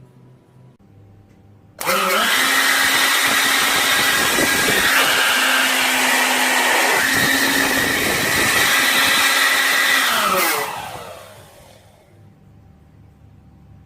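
Motor of a homemade PVC-pipe vacuum cleaner switched on about two seconds in, running at a steady high-speed whine with a hiss, then switched off and winding down near the end, its pitch falling as it fades.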